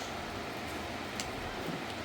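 Steady hiss of heavy rain, with a single sharp tick about a second in.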